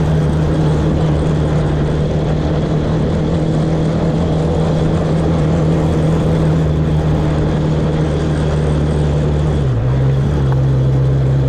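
Off-road vehicle engine running steadily while being ridden. The engine note drops to a lower pitch about ten seconds in as the revs fall.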